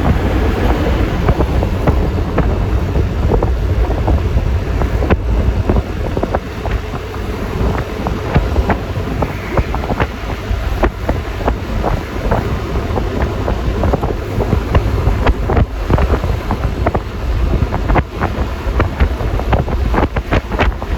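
Wind rushing over the microphone on a moving Yamaha Lexi LX 155 scooter, over a steady low rumble of engine and road noise, with frequent short crackles from the wind, more of them in the second half.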